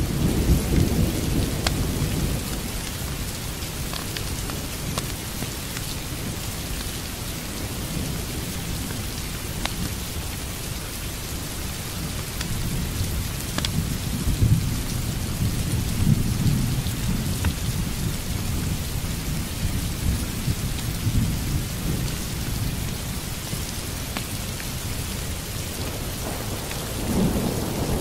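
Steady rain with low rolling thunder that swells at the start, again around the middle, and near the end.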